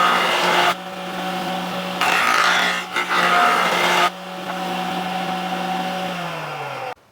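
Electric power tool running on wood, with two loud stretches of the tool biting into the wood, the first at the start and the second from about two to four seconds in. Near the end it is switched off, and its hum falls in pitch as it winds down and stops.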